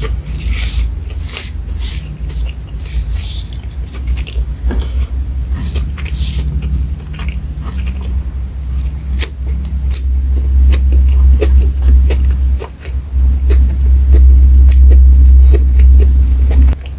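Close-miked crunching and chewing of a crisp raw lettuce leaf, with wet mouth sounds and many small crackles. It grows louder in the second half.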